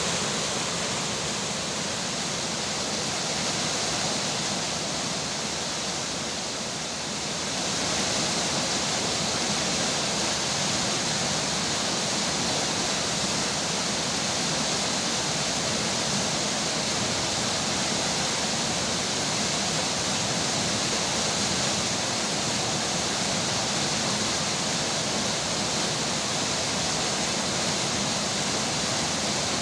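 River water rushing steadily, with rain falling, as a dense even hiss. It dips slightly, then grows louder and brighter about seven seconds in.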